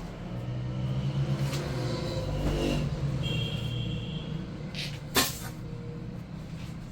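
A motor vehicle's engine running, getting louder for a couple of seconds and then easing off, with one sharp knock about five seconds in.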